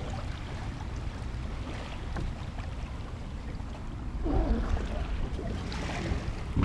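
Wind rumbling on the microphone over water around a kayak, with scattered small knocks and splashes. It gets busier and louder about four to six seconds in.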